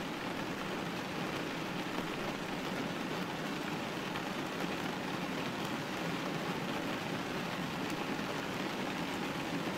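Steady rain hitting a window pane, an even hiss of drops that holds at one level throughout.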